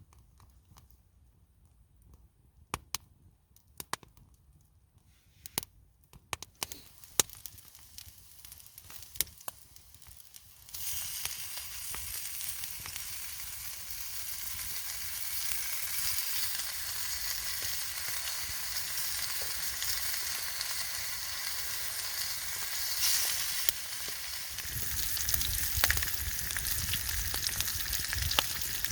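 Scattered sharp clicks and crackles, then, about a third of the way in, food goes into a hot pan over a campfire and starts sizzling, a steady frying hiss that gets a little louder near the end.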